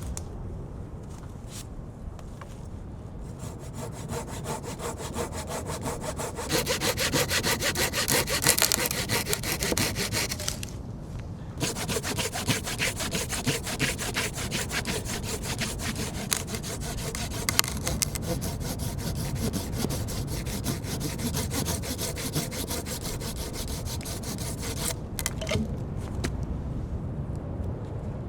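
Hand saw cutting through firewood in steady back-and-forth strokes, with a brief pause about eleven seconds in.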